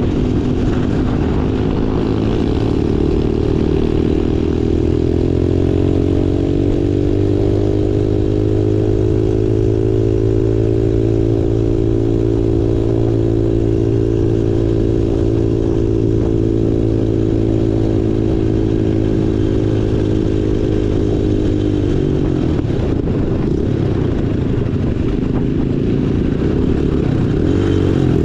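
Small off-road vehicle engine running under way: revs climb over the first few seconds and hold steady for a long stretch, then rise and fall with throttle changes near the end.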